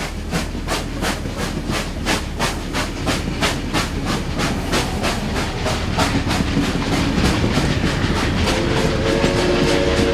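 Train running with a regular wheel clatter, about four beats a second, fading after about six seconds; near the end a horn sounds a steady, held chord.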